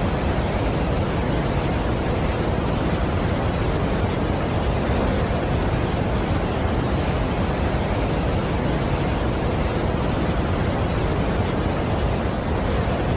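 Large waterfall: a steady, unbroken rush of falling water, heaviest in the low end.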